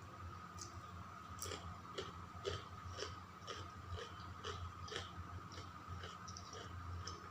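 A person chewing food close to the microphone, with wet clicky mouth sounds about twice a second over a faint steady hum.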